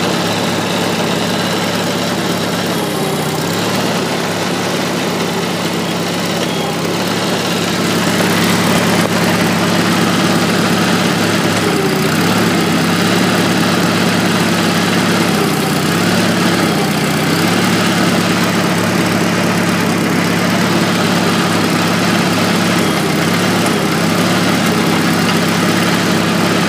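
Farmall Super A tractor's four-cylinder gasoline engine idling steadily, its note dipping briefly a few times.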